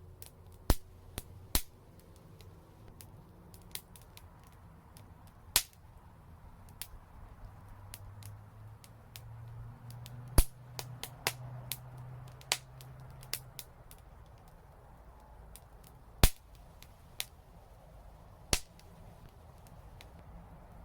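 Fire crackling in a fireplace: irregular sharp pops and snaps, several of them loud, among many smaller ticks.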